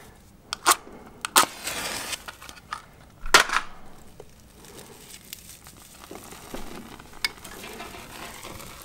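A few sharp clicks and knocks, the loudest about three seconds in, some followed by a short hissing rush, then a faint crackle as a wax-soaked wood-wool firelighter is handled and lit in a fireplace.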